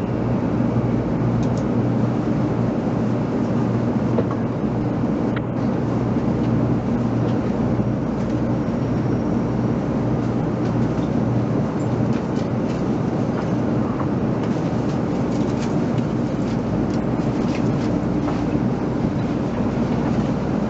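Steady hum with a few low tones from a 300 Series Shinkansen train standing at the platform before its departure, with a few faint clicks.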